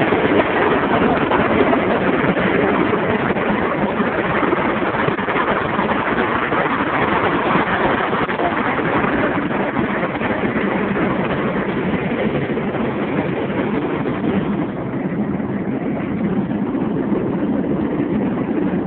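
Steady highway driving noise from inside a moving car: road and wind noise mixed with passing traffic, easing slightly near the end.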